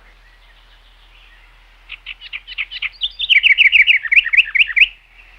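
Birds chirping. About two seconds in, a fast run of short, high chirps begins. It grows louder partway through and stops shortly before the end.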